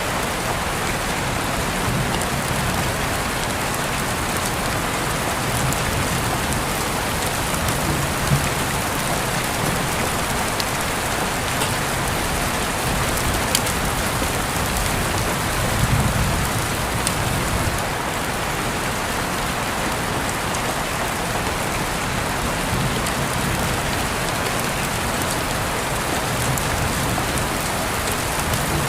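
Steady rain falling, an even hiss with a few sharper drop taps standing out now and then.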